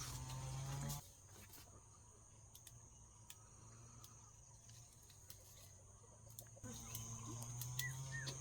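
Chickens clucking, with a few short high peeps near the end, over a steady high-pitched insect drone.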